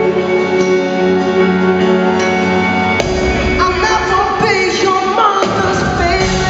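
Live pop ballad played by a band: held guitar and keyboard chords, then about three seconds in the drums and bass come in under a sliding vocal run.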